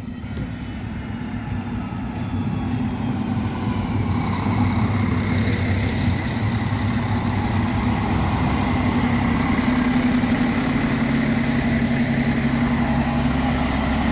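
A train's steady running hum with several held low tones, growing louder over the first few seconds and then holding steady.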